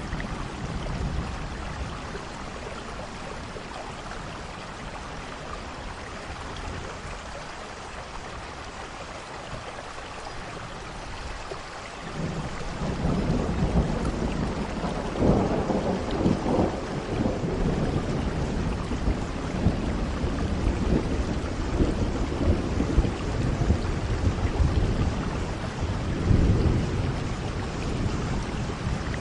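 Steady rain with rolling thunder: the rain hisses throughout, and a low thunder rumble builds about twelve seconds in and rolls on, swelling again near the end.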